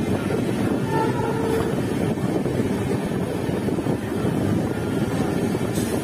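Steady rumble of a passenger train running at speed, heard from an open coach door: wheels on the rails and air rushing past.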